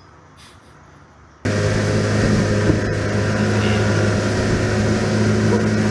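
A motor starts running about a second and a half in and keeps going: a steady, loud drone with a constant low hum.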